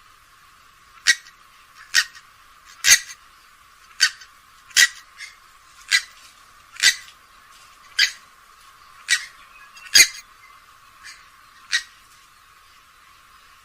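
Grey-headed swamphen giving a run of short, sharp calls, about one a second, thin-sounding with no low end; the last couple are fainter and the calls stop near the end.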